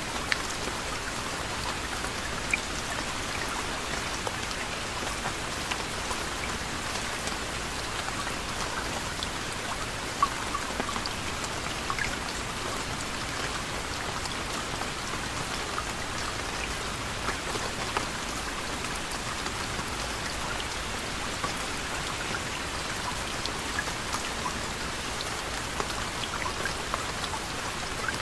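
Steady soft rain falling, an even hiss with scattered individual drops pattering on a surface.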